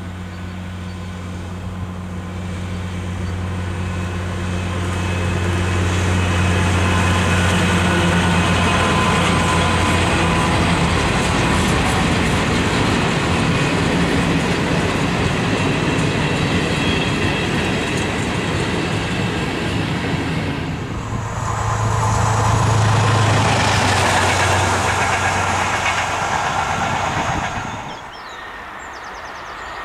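A diesel-hauled train of passenger coaches passing close by. First the locomotive's engine hum as it approaches, then the steady rumble and clatter of the coaches' wheels on the rails, and a second engine hum swelling near the end as the locomotive at the rear goes by. The sound drops off suddenly shortly before the end.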